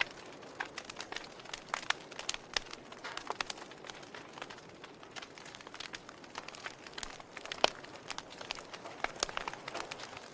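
Fire crackling: irregular sharp pops and snaps over a soft steady hiss, with one louder pop about three quarters of the way through.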